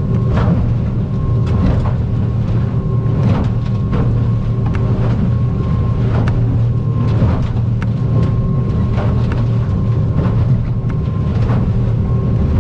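Stabicraft 2050 aluminum boat running at speed through rough water, heard from inside the cabin. A steady low engine drone with a thin whine runs throughout, broken by frequent short knocks and splashes as the hull meets the swells.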